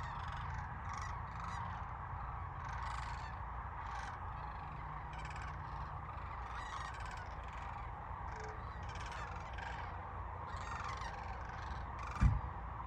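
A large flock of sandhill cranes calling together, a continuous chorus of many overlapping calls over a steady low rumble. A single short thump comes near the end.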